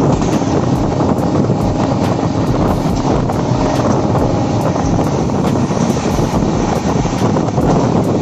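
Passenger train running steadily, a constant low rumble with wind buffeting the microphone.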